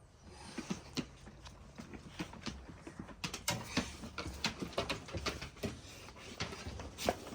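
Dogs moving about, making quick, irregular clicks and taps that grow busier about three seconds in.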